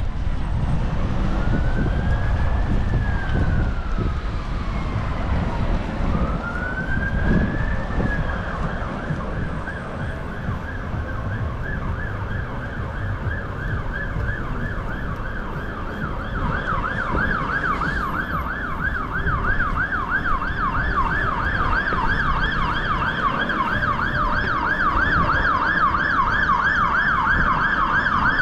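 Emergency vehicle siren in street traffic: slow rising and falling wails, then a held tone, switching about two-thirds of the way through to a fast warble. A low rumble of traffic runs underneath, heaviest at the start.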